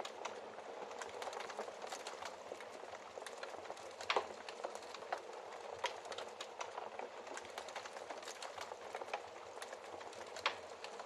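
Wood fire crackling in a fireplace: a steady soft hiss studded with frequent small snaps, and louder pops about four seconds in and near the end.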